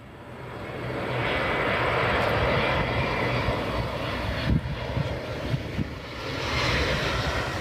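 Embraer E170 regional jet's twin turbofans sounding as it comes in to land. The engine noise swells over the first second or two, dips briefly around six seconds in, then swells again near the end.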